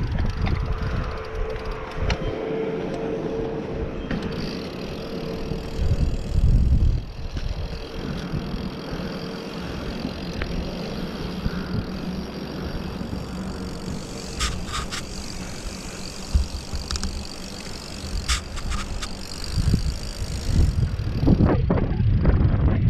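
Mountain bike riding down a dirt trail: steady rumble of tyres and bike over the ground with wind on the microphone, a few sharp clicks partway through and heavier rumble near the end.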